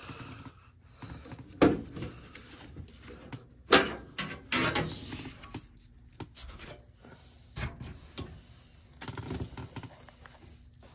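Scattered knocks and rubbing from someone moving about and handling things on wooden boards, with two sharp knocks about one and a half and three and a half seconds in.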